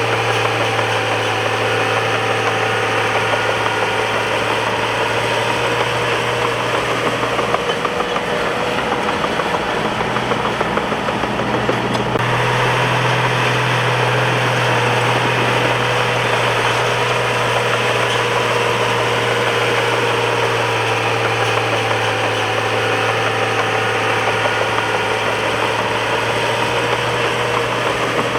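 Crawler bulldozer's diesel engine running steadily, its low note growing stronger and slightly higher about twelve seconds in.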